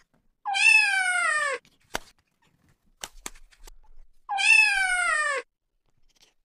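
A kitten meows twice, about four seconds apart: two identical long meows that rise briefly and then slide down in pitch. A few faint clicks fall between them.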